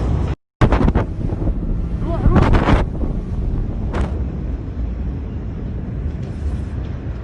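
Heavy low rumble and wind buffeting on the microphone, with a few short sharp cracks about 1, 2.5 and 4 seconds in.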